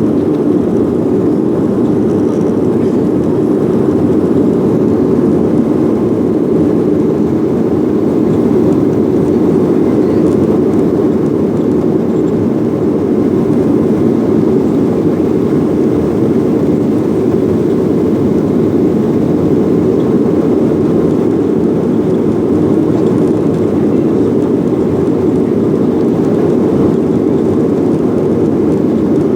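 Boeing jet airliner's engines and airflow during takeoff: a steady, dense rumble that does not change in pitch or level.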